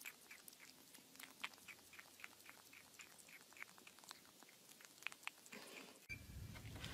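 Kitten eating from a plastic bowl: faint, quick mouth clicks at about four a second. Near the end, a low steady hum begins.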